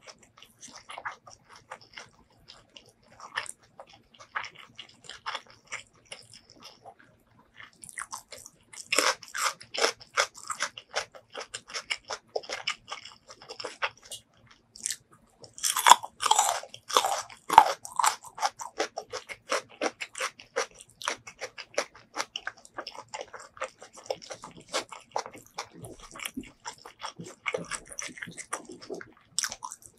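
Close-miked eating sounds: wet chewing and small mouth clicks throughout. A run of loud crisp crunches comes around the middle, from biting into a small raw onion.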